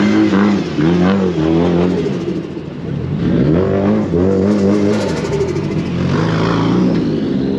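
Car engine revving, its pitch rising and falling several times over the steady low hum of idling engines.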